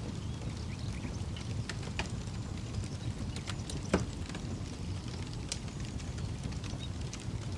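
Wood campfire crackling, with scattered sharp pops and one louder pop about four seconds in, over a low steady rumble.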